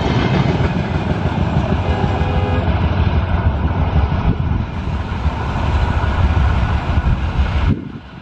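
Passenger train rushing past at speed, a steady loud rumble of wheels on the track, cutting off abruptly near the end.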